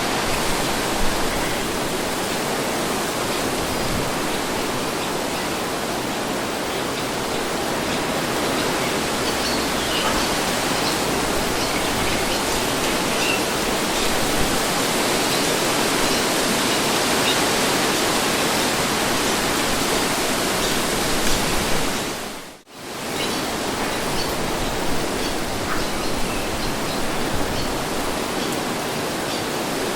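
Wind blowing as a steady, even rushing noise, with a brief sharp drop-out about three quarters of the way through.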